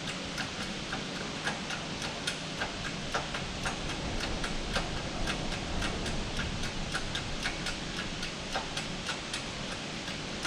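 A steady run of sharp mechanical clicks, about three or four a second, from the tool pressing a bushing into the Agusta AW119 tail rotor hub.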